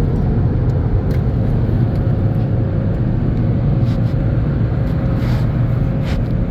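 Steady low rumble of an automatic car wash's machinery heard from inside the car's cabin, with a faint steady hum.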